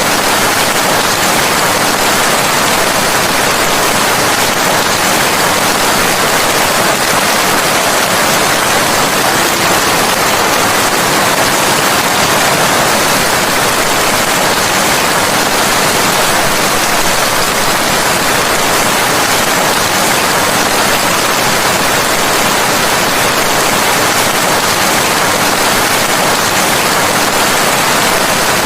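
Steady, heavy rain falling, an even hiss with no thunder or other events.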